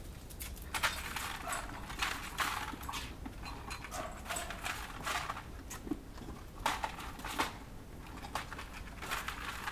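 Irregular sharp taps and clicks, one or two a second, like a dog's claws clicking on a hard floor as it moves about.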